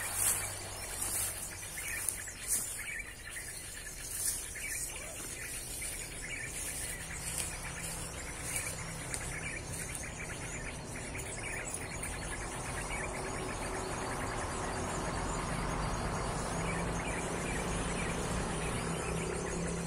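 High bird chirps and insect trilling, with traffic noise from a nearby main road swelling in the second half, carrying a low steady hum.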